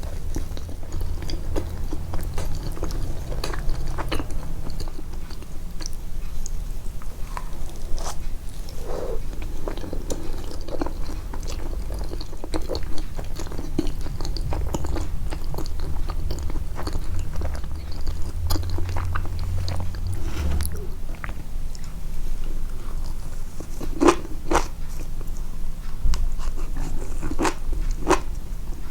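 Close-miked chewing and biting with crisp cracking crunches, the loudest ones coming in a quick run near the end.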